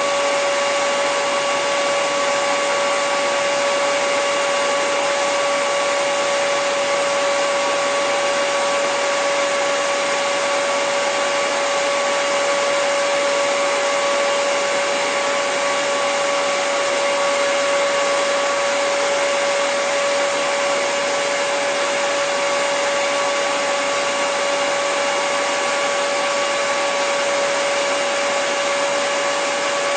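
Hair dryer running steadily: an even rush of blown air with a steady motor whine on top, unchanging throughout.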